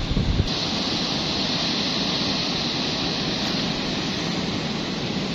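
Steady rush of fast-flowing river water, the Indus running through rapids, after a brief buffet of wind on the microphone that stops abruptly about half a second in.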